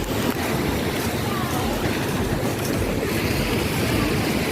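Steady beach ambience: surf and wind rushing against the microphone, with faint voices of a crowd.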